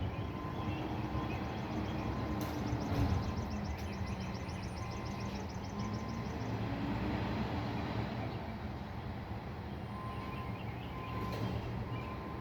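A roll-off container truck's engine running steadily under load, its pitch rising briefly about halfway through, with a rapid light ticking for a few seconds.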